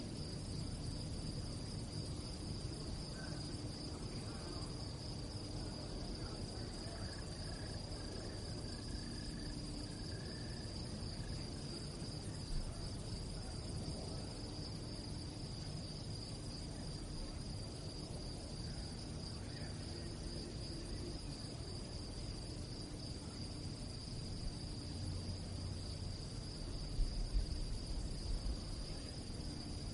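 Crickets chirping in a steady, high-pitched pulsing trill that never stops, over a low rumble of background noise. A few soft low bumps come near the end.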